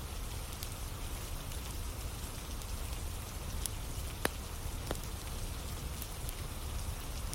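Steady rain with a campfire of burning logs, its wood crackling with a couple of sharp pops near the middle.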